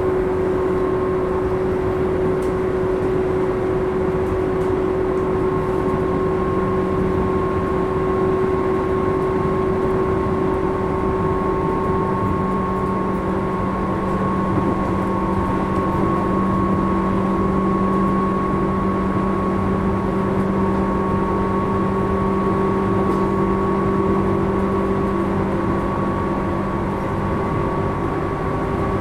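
Interior running sound of a Tobu 10000 series electric train, recorded in a motor car: wheels on the rails and the traction equipment making steady whining tones at an even level. A lower hum grows stronger about twelve seconds in.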